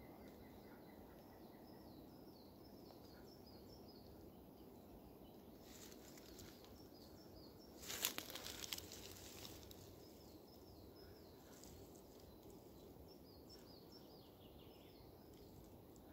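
Small forest birds chirping in quick repeated runs of falling notes over faint, steady background noise, with a brief crackling rustle about eight seconds in, the loudest moment.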